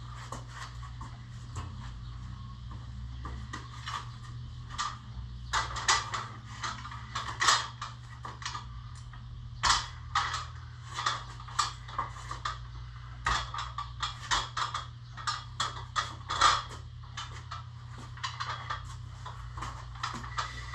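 Irregular clatter of short knocks and clanks from handling heavy equipment and dollies, over a steady low hum. The knocks come in quick clusters, thickest through the middle.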